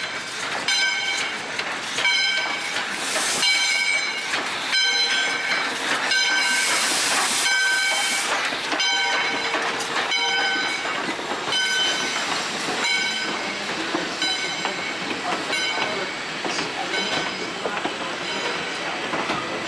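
Passenger train rolling along behind a steam locomotive, with a bell ringing steadily at about one and a half strikes a second, fading toward the end. Broad hiss swells up briefly about three seconds in and again around seven seconds.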